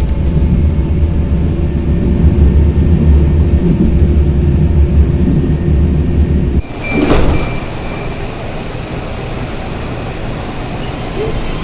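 Electric tram running with a heavy low rumble, which cuts off abruptly about two thirds of the way through. A short hiss follows, then a quieter hum, and near the end a stepped electric-motor whine starts rising in pitch as the tram pulls away.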